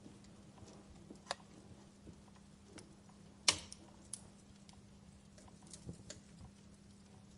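Wood fire crackling: scattered sharp pops and snaps, the loudest about three and a half seconds in, over a faint steady hum.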